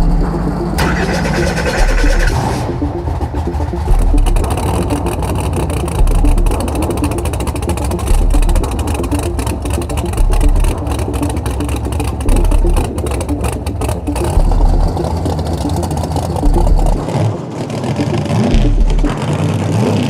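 Race car engines running and revving, under a dramatic soundtrack with a deep bass hit about every two seconds. The engine pitch rises sharply twice near the end.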